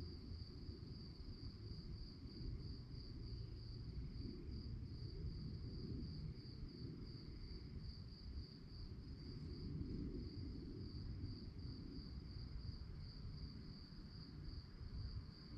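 Crickets chirping at night in a steady, rapidly pulsing high trill, over a constant low rumble of background noise.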